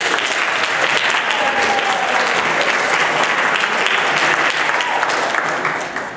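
Audience applause, dense clapping that cuts in suddenly and fades away near the end.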